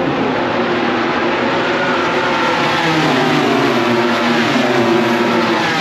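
MotoGP racing motorcycles going past on track, their four-cylinder engines loud, the pitch climbing through the middle and dropping away near the end.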